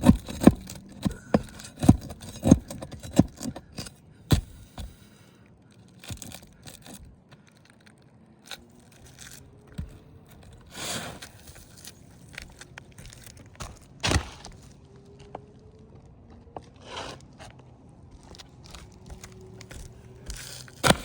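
Asphalt roof shingles being lifted and bent by hand: a quick run of sharp scrapes and cracks over the first few seconds, then scattered scrapes and clicks. The gritty scraping is the sound of granule loss from aged, brittle shingles.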